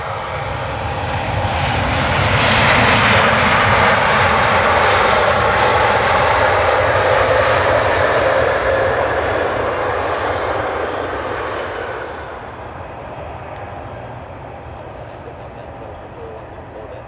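Jet engines of a Boeing 717 (Rolls-Royce BR715 turbofans) going past: the engine noise swells about two seconds in, stays loud for several seconds, then fades from about twelve seconds on.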